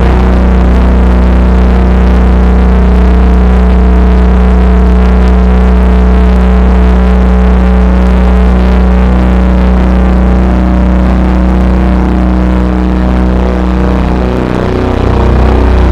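Drone and noise music: a loud, sustained low bass drone under several held steady tones and a dense hiss. The bass briefly shifts near the end.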